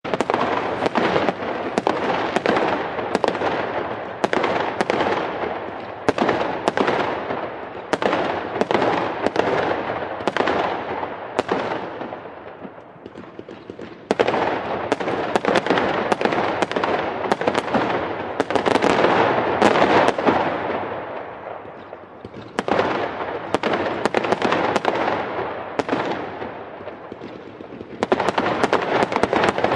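A firework display: rapid bangs several a second with crackling in between, coming in waves that die down briefly and then pick up again.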